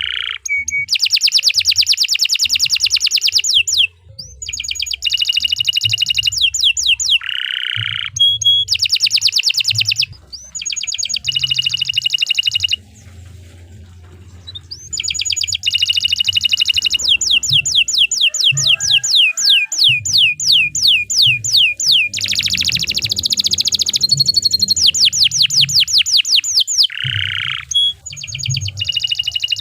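Domestic canary singing a long rolling song: runs of fast repeated trills and chattering notes with a few short breaks, the longest about halfway through.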